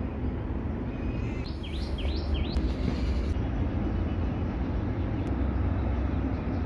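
A small bird chirps about four times in quick succession, about a second and a half in, over a steady low background rumble.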